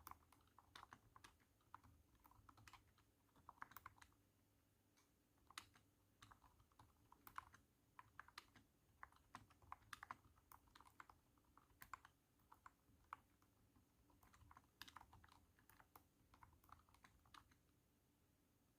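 Typing on a cat-shaped keyboard: quiet, irregular runs of thunky keystrokes with short pauses, the typing stopping shortly before the end.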